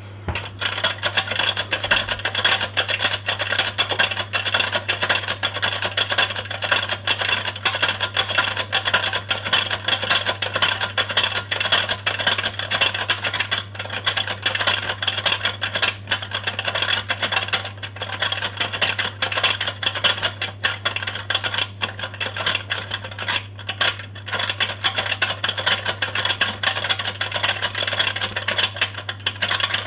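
Vintage Boomaroo toy washing machine running, its mechanism making a fast, continuous clatter like typewriter keys that starts abruptly, over a steady low hum.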